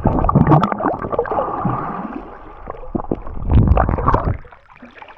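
Seawater sloshing and gurgling loudly as a person dips down into the shallow ocean, with a jumble of small splashes and knocks that dies away about four and a half seconds in.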